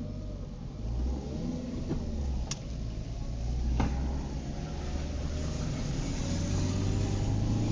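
Car driving in the rain, heard from inside the cabin: a steady low engine and road rumble with a hiss of tyres and rain that slowly grows louder. Two sharp clicks come about a second apart near the middle.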